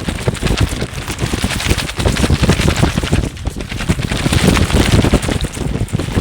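Caperlan poncho fabric flapping and crackling rapidly in a strong wind gust, with heavy wind rumble on the microphone. The gust builds about two seconds in and eases off near the end.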